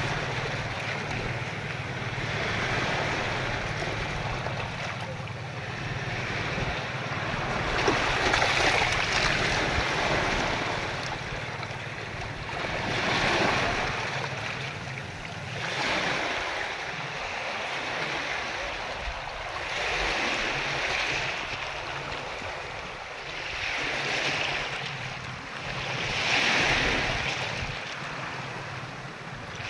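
Ocean waves washing ashore, the rush of surf swelling and fading every few seconds.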